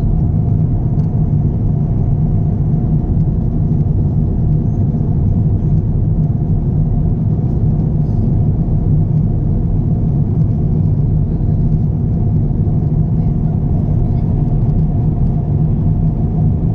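Steady low rumble inside the cabin of an Airbus A350-900 airliner: engine and airflow noise with no change in pitch or level.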